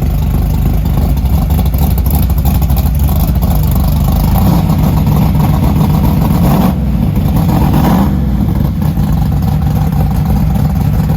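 A car engine running loudly, revving up through the middle and dropping back at about eight seconds.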